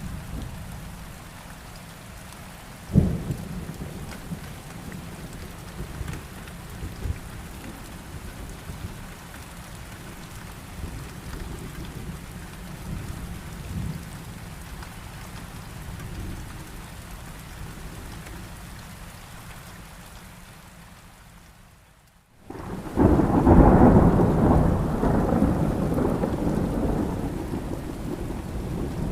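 Steady rain with thunder. A sharp thunderclap comes about three seconds in. Near the end the sound drops out briefly, then returns with a loud, long rumble of thunder over the rain that slowly dies away.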